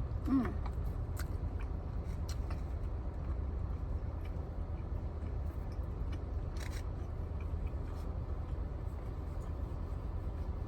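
Steady low hum inside a car's cabin, with scattered soft clicks of chewing and eating utensils.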